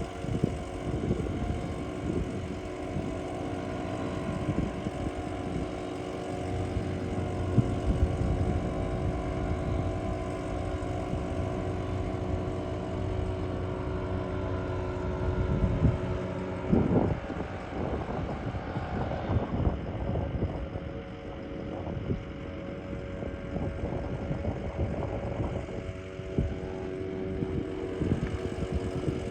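An engine running steadily at a constant speed, its hum holding level throughout, with irregular rushing noise rising and falling over it.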